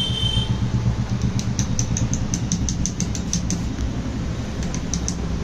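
A steady low mechanical hum with a run of light metallic clicks, about four to five a second, from about a second in to halfway through, then a few more near the end.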